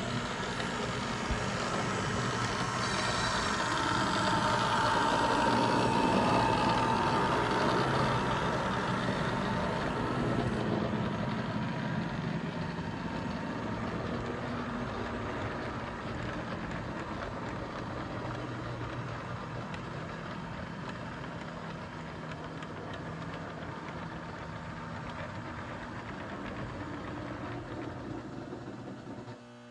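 Freight train rolling past with a steady rumbling of wheels on rail over a low hum. It is loudest about six seconds in, then slowly fades, and cuts off abruptly just before the end.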